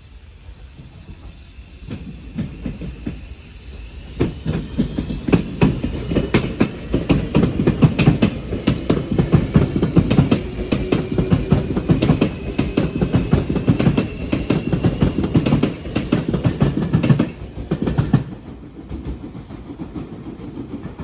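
A train passing close by, its wheels clattering over rail joints in a long run of clicks, with a faint whine above. It builds over the first few seconds, is loudest through the middle, and drops away after about eighteen seconds.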